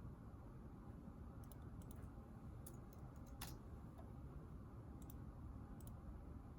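Quiet room tone with a steady low hum and scattered faint, irregular light clicks, one a little sharper about halfway through.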